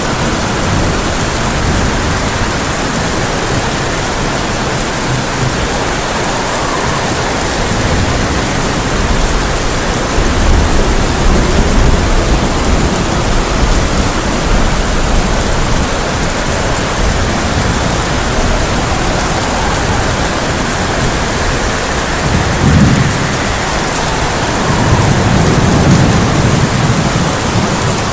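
Heavy rain drumming steadily on a tin roof, with rolls of thunder rumbling low several times, loudest about ten seconds in and again near the end.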